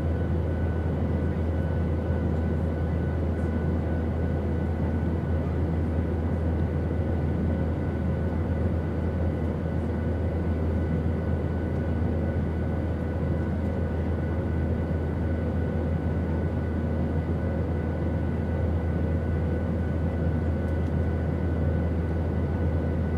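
Steady airplane cabin noise in flight: a deep, even rumble with faint steady tones above it.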